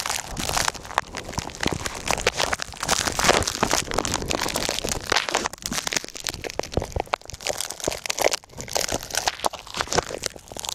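Snow crunching and crackling close to the microphone: a dense, irregular run of crunches with no steady rhythm.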